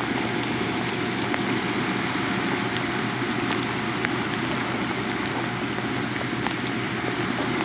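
Steady rain with scattered raindrop ticks close by, over a constant rush of fast-running water below a dam spillway.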